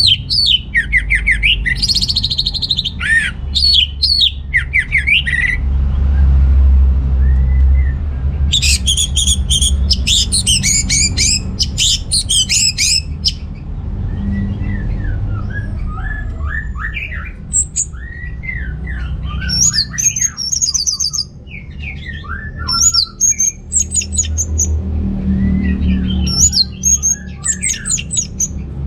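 Orange-headed thrush singing in full voice: a long run of rapid, varied whistled and chattering phrases separated by short pauses.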